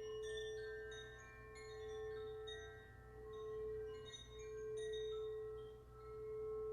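Quartz crystal singing bowl sounding one steady low tone that swells and fades about every second and a half, with short, high bell-like notes scattered over it.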